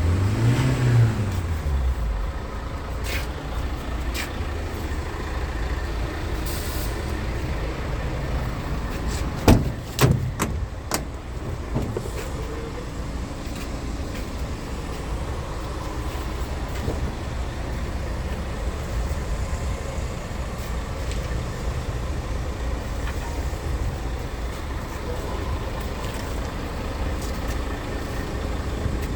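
Scania R tractor unit's diesel engine, its revs rising briefly and falling away in the first couple of seconds, then running steadily. A few sharp knocks come about ten seconds in.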